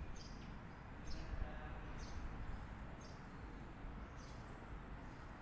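A bird chirping repeatedly, short high notes about once a second, over faint low outdoor rumble.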